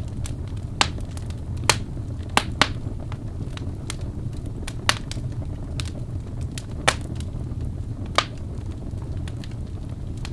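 Wood fire crackling: a low steady rumble with sharp, irregular pops and snaps every second or so.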